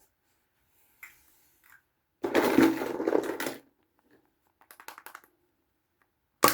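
Small plastic toys and packaging being handled. About two seconds in comes a loud burst of rough noise lasting over a second, then a quick run of light clicks, and a sharp click near the end.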